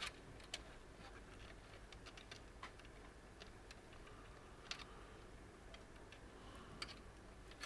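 Near silence with a few faint, scattered clicks as fan cables and their plastic connectors are handled and routed inside a PC case.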